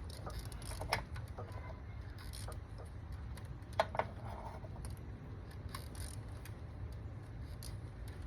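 Scattered light clicks and clinks of hand tools against metal parts in an engine bay during a spark-plug change, the sharpest about a second in and near four seconds, over a steady low rumble.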